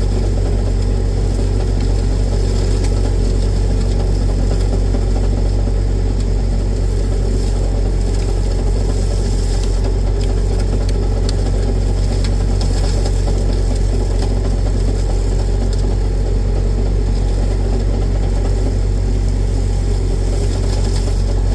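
Tractor engine running steadily at an even speed while hedgecutting, a constant low hum with no change in revs.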